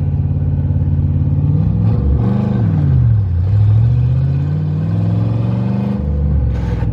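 Ford Mustang GT's V8 engine running hard under load, with the revs climbing about two seconds in, dropping back, then rising again and holding before easing off near the end.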